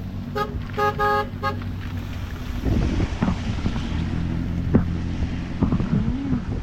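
A vehicle horn tooting about four times in quick succession, then a vehicle engine running steadily as it passes.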